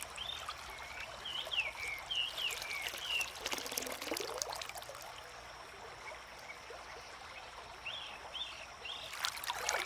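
Faint trickling water with short, curved bird chirps: a run of them in the first few seconds and a few more near the end.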